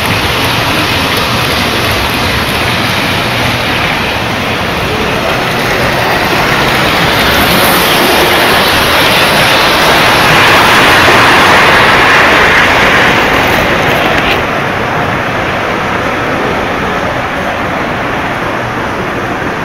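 Model trains running on the layout track, a steady rumbling rush of wheels and motors. It grows louder midway as a train passes close, then drops off suddenly about 14 seconds in.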